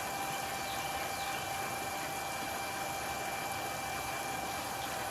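Water pump running steadily while draining a small backyard pool: an even hum with a thin, unchanging whine.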